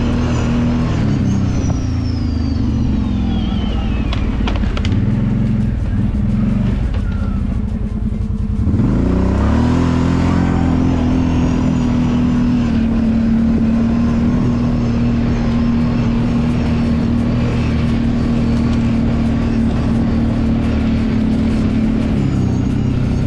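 Kawasaki Brute Force 750 ATV's V-twin engine running as it rides. The revs dip sharply about eight seconds in, then climb back and hold steady for most of the rest. They ease off again near the end.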